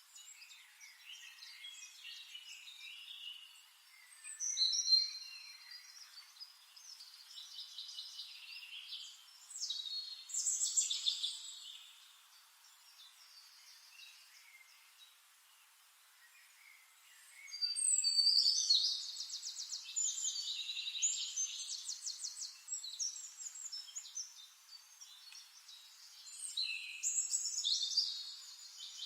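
Songbirds singing in several bursts of chirps and fast trills, with quieter gaps between phrases.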